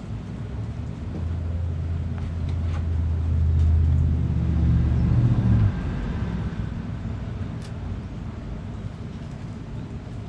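A low engine hum, like a motor vehicle, that grows louder for a few seconds and then cuts off abruptly about halfway through. A steady outdoor noise remains, with a few faint short ticks.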